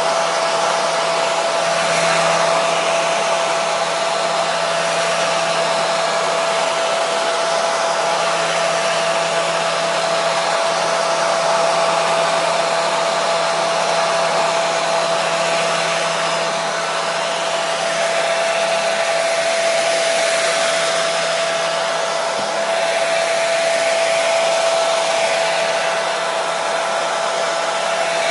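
Hair dryer running steadily: an even rushing blow with a constant motor whine.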